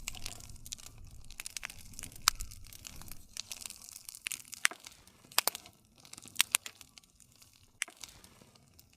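Wood campfire crackling, with frequent sharp pops and snaps over the soft low rustle of the flames. The bed of flame noise quietens in the second half, leaving scattered pops.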